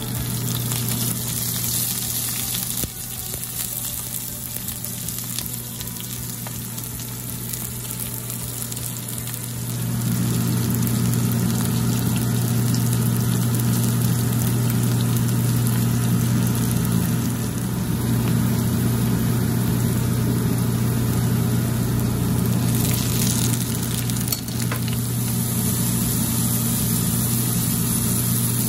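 Onions, garlic and then tomatoes sautéing in hot oil in a frying pan, with a steady sizzle. A steady low hum joins about ten seconds in, when the overall sound gets louder.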